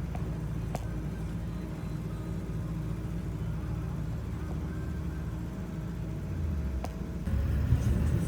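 Steady low engine and road rumble inside a moving bus, with a couple of small knocks; it gets louder near the end.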